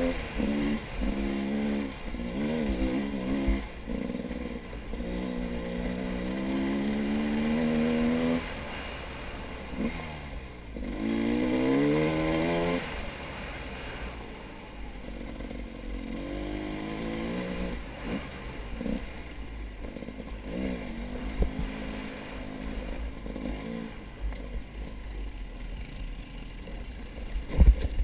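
A vehicle engine being ridden, its pitch rising and falling repeatedly as the throttle opens and closes, with wind buffeting the microphone.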